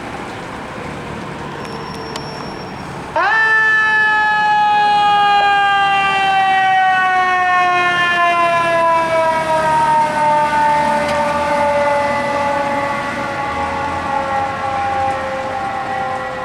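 Fire engine siren wound up sharply about three seconds in, then winding down slowly and steadily in pitch, the spin-up and coast-down of a mechanical siren, over the running fire apparatus.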